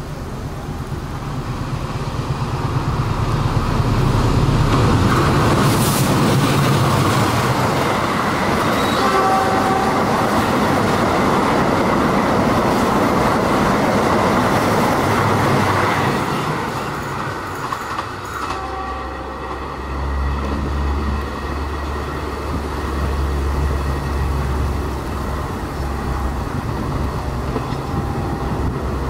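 Diesel-hauled passenger train passing close at speed: the locomotive engine and the rumble and clatter of coach wheels on rail grow loud over the first few seconds and hold, with brief horn toots. After about eighteen seconds a quieter, lower train rumble follows.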